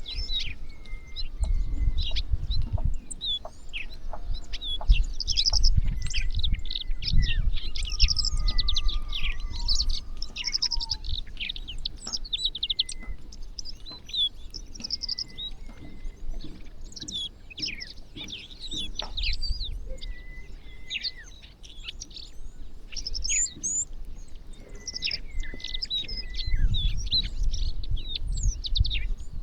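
A large flock of small birds chirping and calling over one another, many short high chirps packed densely together with a few brief steady whistled notes. A low rumble comes and goes underneath.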